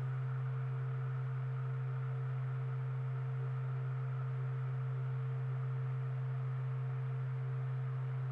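A steady, unchanging low hum, with a few fainter higher tones above it.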